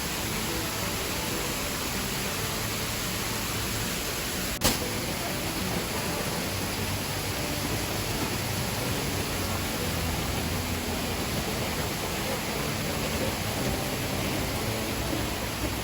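Steady, even rushing of falling water from a waterfall, with one sharp click about four and a half seconds in.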